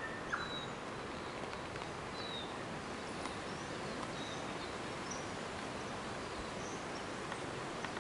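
Quiet forest background hiss with a few short, high bird chirps and whistles scattered through it, and a faint knock just after the start.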